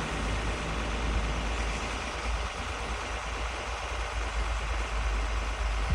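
BMW F10 528i's N52 straight-six engine idling steadily, a continuous low hum with hiss above it.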